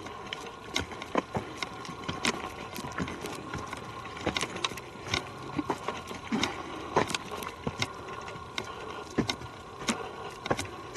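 Footsteps on a forest trail: irregular crunching steps, about one or two a second, over a faint steady hum.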